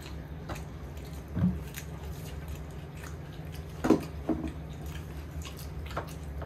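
People chewing and eating, with small wet mouth sounds and scattered light clicks, the sharpest about four seconds in, over a steady low hum.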